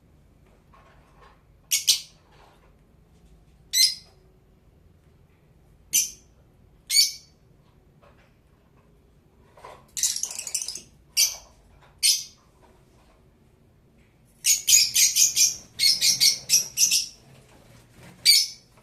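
Blue Fischer's lovebird chirping: single shrill calls a second or two apart, then a quick run of rapid chirps about three-quarters of the way in.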